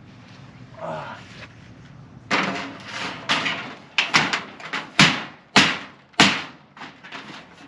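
A series of sharp knocks and bangs, about eight in four seconds, the loudest in the middle, each with a short ringing tail: building material being knocked about and set in place.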